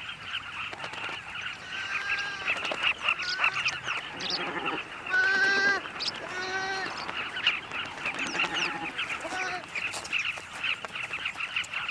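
Carmine bee-eater colony calling: a dense, continuous chatter of short chirps, with several louder, drawn-out bleating calls rising above it.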